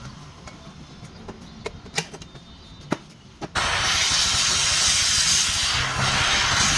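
A few sharp clicks, then a loud steady hiss that starts suddenly about halfway through and keeps going: an improvised welding device running.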